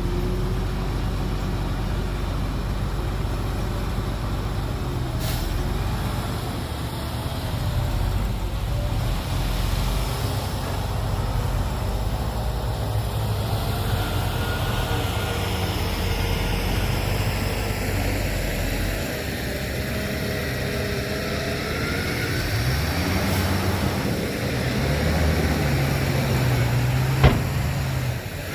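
Heavy diesel earthmoving machinery running hard: a steady low engine rumble whose pitch rises and falls in places. There is one sharp knock near the end.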